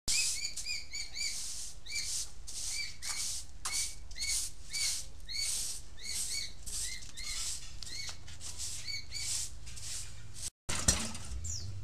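Small birds chirping over and over, short arched chirps coming two or three a second, over a low steady hum; the sound drops out briefly near the end.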